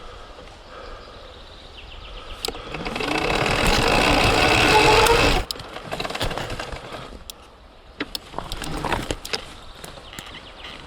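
Surron Ultra Bee electric dirt bike with a TORP TM50 Pro motor, its motor whine rising in pitch under a hard burst of throttle on a climb, along with tyre and drivetrain noise. It cuts off abruptly about halfway through. Sharp clicks and knocks from the bike's chassis and drivetrain follow.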